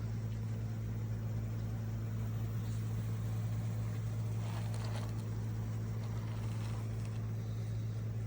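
A steady low mechanical hum over a constant rushing noise, like a motor or vehicle running, with a faint brief sound about halfway through.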